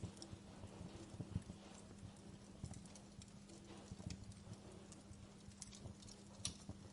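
Wood fire crackling, with small irregular pops and snaps over a steady low hum.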